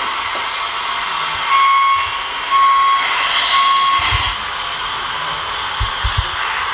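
Three evenly spaced electronic beeps of one steady pitch over a constant hiss of background noise, followed by a few low thumps.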